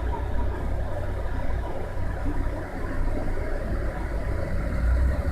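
Steady low rumble of city street noise, like a vehicle running.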